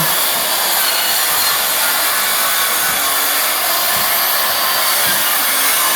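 Steady, loud rushing hiss with no distinct tones or knocks, unchanging throughout.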